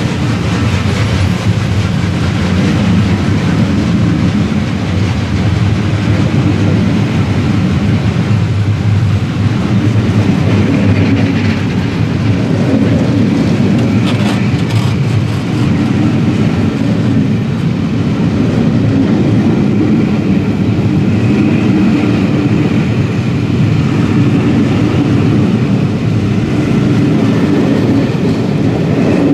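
A train rolling past at steady speed: a continuous low rumble of wheels on rails, with a few sharp clicks about halfway through.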